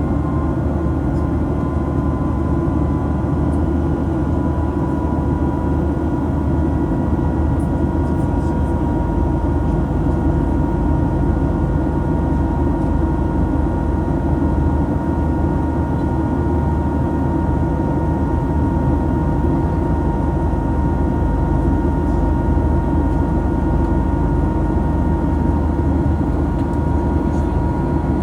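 Steady jet-engine and airflow noise inside the cabin of a Boeing 737 MAX-8 with CFM LEAP-1B engines: a constant low rumble with a steady whine on top. The whine dips slightly in pitch early on and climbs again near the end.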